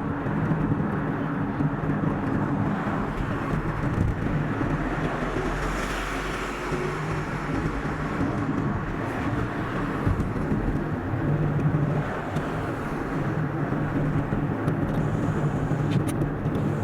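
Steady road noise of a car driving, tyre roar with a low engine hum, sped up to double speed.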